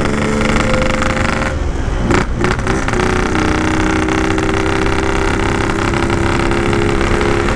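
Yamaha RX-King 135cc single-cylinder two-stroke engine running under throttle but pulling weakly, like a snail. The note breaks off briefly about two seconds in, then comes back and rises slowly. The rider suspects a carburettor that is running too wet and needs setting up.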